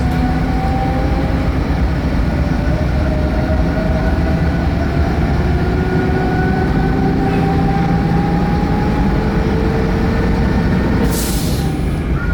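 Vintage railbus running under way, heard from on board: a steady low rumble with whining tones that rise slowly as it gathers speed after departing. A short hiss comes near the end.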